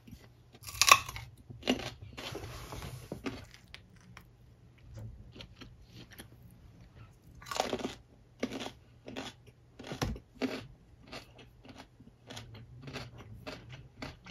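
A person biting and chewing food close to the microphone: a loud bite about a second in and another near eight seconds, with irregular chewing between.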